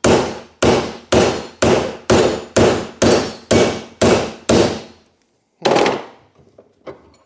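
Hammer blows on a seized Volvo 142 door hinge pin, steel on steel, about two strikes a second for ten blows, then a pause and one more blow. The pin is very tight and barely moving.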